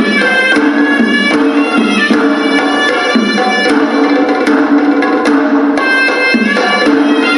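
Hewisi, Sri Lankan temple ritual music: a horanewa (double-reed pipe) plays a sustained melody over repeated drum strokes from the hewisi drums (davula and tammattama).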